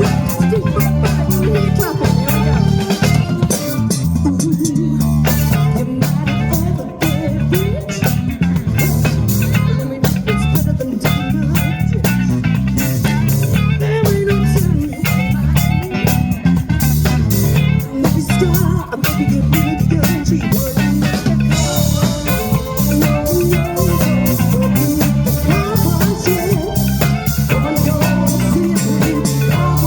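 Live band playing a funk groove on electric guitar, bass guitar and drum kit, with a steady beat and no vocal line heard.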